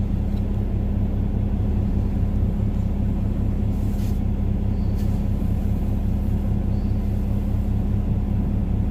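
Semi-truck diesel engine idling: a steady, even low rumble with a constant hum, plus a couple of faint clicks about four and five seconds in.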